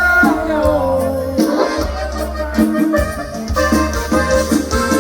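Live band music in an instrumental passage between sung lines: accordion melody over bass and a steady beat.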